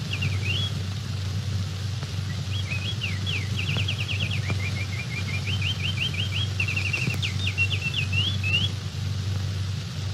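A bird chirping and trilling: quick rising whistled notes and fast runs of repeated notes, over a steady low hum.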